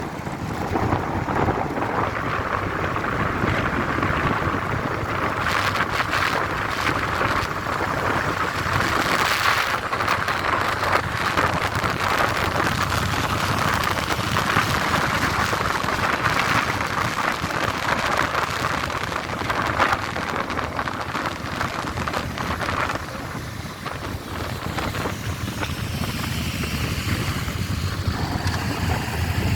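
Steady rushing wind and road noise while riding in a large motorcycle convoy, with the motorcycles' engines running underneath. The rush eases a little about three-quarters of the way through, and a deeper engine rumble builds near the end.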